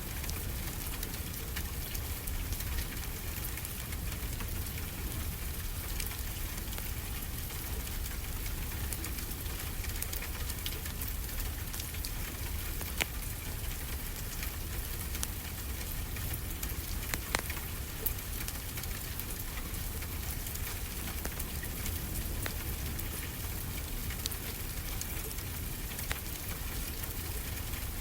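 Wood fire crackling, with scattered sharp pops, over a steady low wash of ocean surf.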